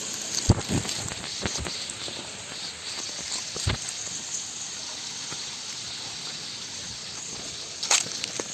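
Steady rush of water from a small waterfall, with a few short knocks scattered through it, the loudest near the end.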